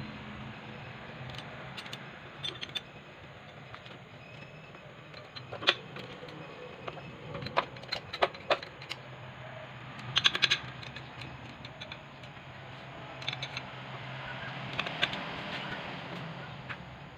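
Scattered metallic clinks and taps of tools and small parts being handled, with a quick cluster of clicks about ten seconds in, over a steady low hum.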